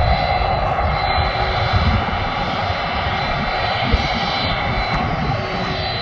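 Jet airliner engines running steadily: a constant high whine over a rough low rumble.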